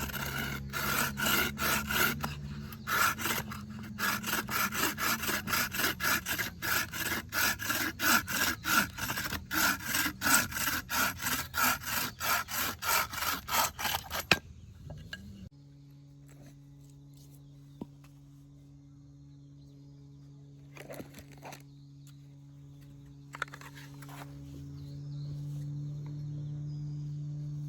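Hand-sawing wood with a bow saw (bucksaw), even back-and-forth strokes at about two a second that stop about halfway through. A steady low hum follows, with two short rasping sounds near the end.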